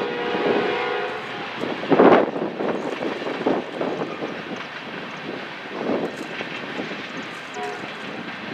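Freight train cars rolling past on steel rails: a steady rumble and clatter of wheels, with a brief metallic squeal in the first second and a loud clank about two seconds in.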